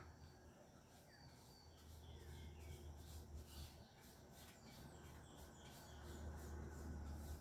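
Faint, scattered bird chirps and short calls over a low rumble that swells and fades twice.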